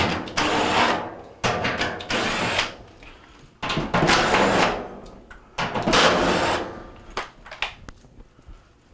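A power drill with a 5/16 in nut-driver bit, run in four short spurts of about a second each as it backs out the sheet-metal screws holding a dryer's front panel.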